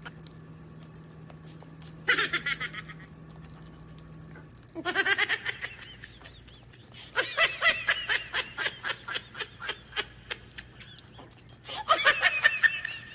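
Several bursts of laughter, each a quick run of pulsed 'ha-ha' sounds, the longest about halfway through.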